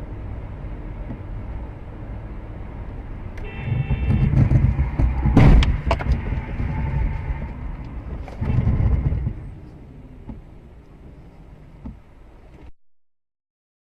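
Steady low rumble of a car driving, as picked up by a dashcam. It swells louder about three and a half seconds in with a brief high tone, then there is a sharp bang about five and a half seconds in. The sound cuts off abruptly near the end.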